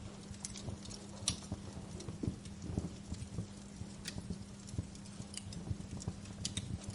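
Wood fire crackling in a fireplace: irregular sharp pops and snaps, a few louder ones, over soft low thumps and a steady low hum.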